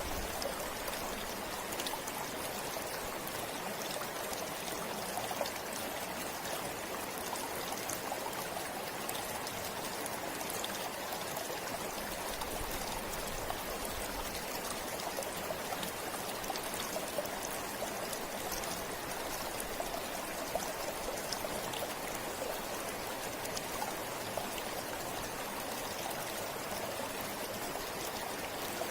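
River water flowing steadily over stones, an even rushing with small splashes and trickles throughout.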